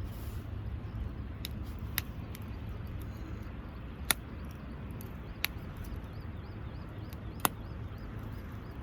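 Wood campfire crackling, with a handful of sharp pops spaced irregularly over a steady low rumble.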